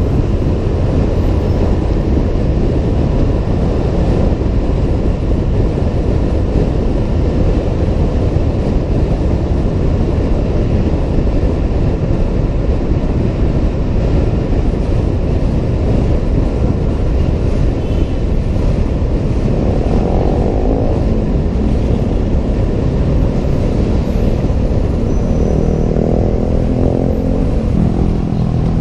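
Riding a Honda PCX 125 scooter in city traffic: a steady low rumble of wind and road noise on the helmet-mounted microphone, with engine sound underneath. A vehicle's engine rises in pitch briefly about twenty seconds in and again near the end.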